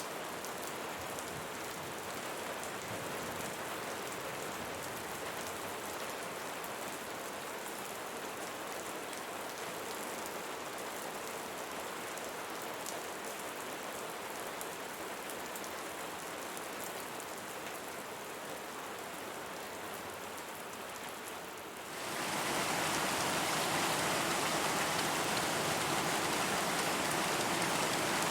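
Steady rain falling on a surface, a continuous hiss with fine pattering drops. About 22 s in it suddenly gets louder and brighter, a heavier downpour.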